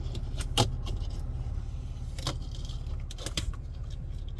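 Skateboard wheels rolling over rough pavement in a steady low rumble, with a few sharp clacks and rattles from the board and trucks.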